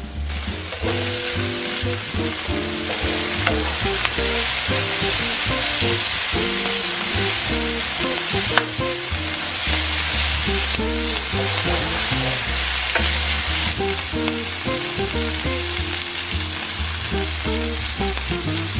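Chopped leafy greens sizzling in a hot frying pan while being stirred with a wooden spoon, a steady hiss starting about half a second in. Background music plays underneath.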